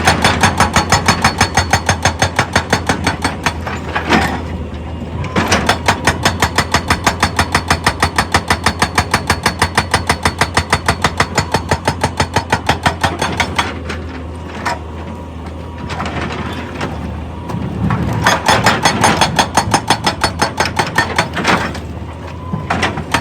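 Excavator-mounted hydraulic rock breaker hammering in three runs of rapid, even blows, several a second, stopping and restarting between runs, over the steady low hum of the excavator's engine.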